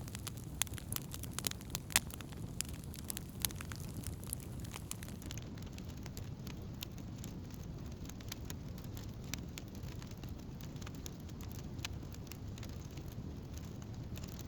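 Wood campfire burning with a steady low rumble and irregular sharp crackles and pops, frequent in the first few seconds and sparser after that.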